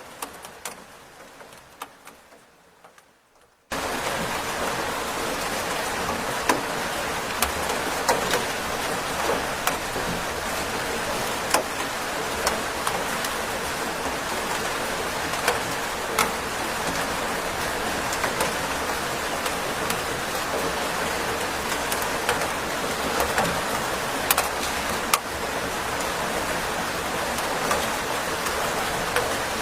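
Steady rain with individual drops ticking sharply now and then. It fades almost away in the first few seconds, then cuts back in abruptly about four seconds in.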